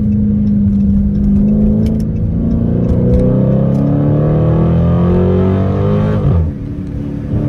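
Car engine running under load: its pitch holds steady, then climbs steadily for about four seconds as the car accelerates, and drops sharply near the end.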